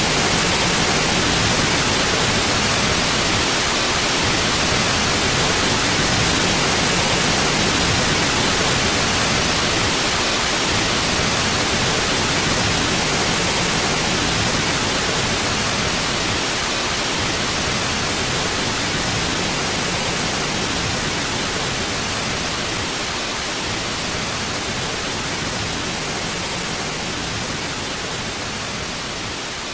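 Steady white noise: an even hiss with no tones or events, gradually getting quieter over the second half.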